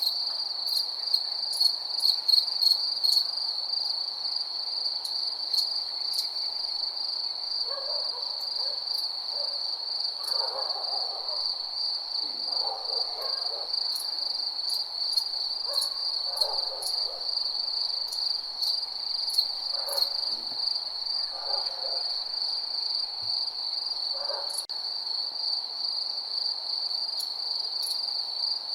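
Night insect chorus: crickets trilling steadily in a high pulsing chirr. A lower call, about a second long, is repeated roughly every two seconds through the middle, and there are scattered sharp clicks, busiest in the first few seconds.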